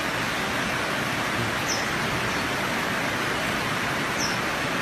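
Steady rushing noise, like wind or rain, with a short high falling bird chirp twice, about two and a half seconds apart.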